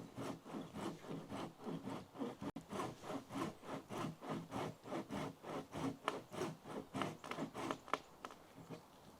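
Hand saw cutting through spruce wood in steady back-and-forth strokes, about three a second, stopping near the end.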